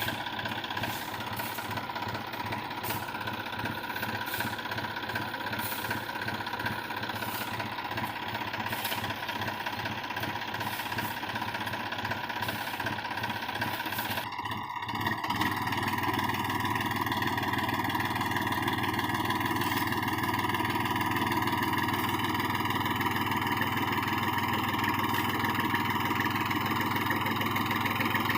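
New Holland 4710 tractor's diesel engine running, with regular sharp knocks about one and a half times a second over the first half. About halfway through the sound turns louder and steadier and the knocks stop.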